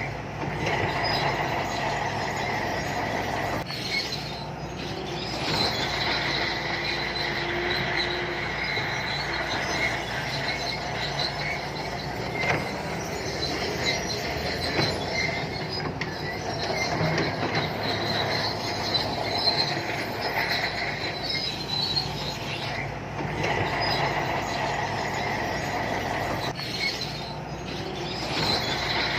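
Shantui crawler bulldozer working, its engine running under a continuous high squeal from the steel tracks.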